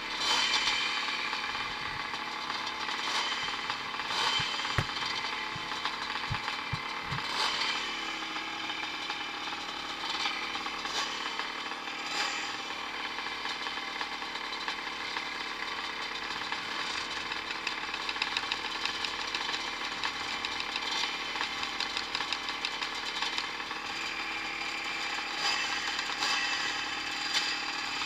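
Several vintage Evolution-class 250 and 500 motocross bikes racing, their engines revving up and down in overlapping buzzing notes.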